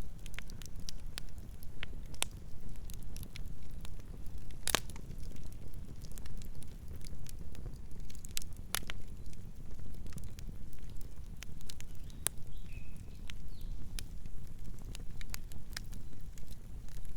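Wood campfire burning: a steady low rumble under frequent sharp crackles and pops, the loudest pops about five and nine seconds in.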